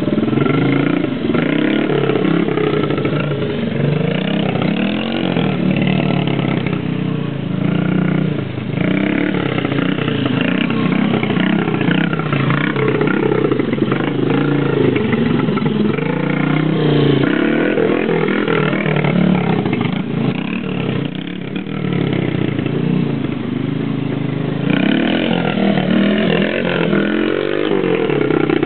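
Honda CRF50 pit bike's small single-cylinder four-stroke engine, bored out to 88cc with a BBR big bore kit, running and being revved up and down repeatedly, its pitch rising and falling with the throttle.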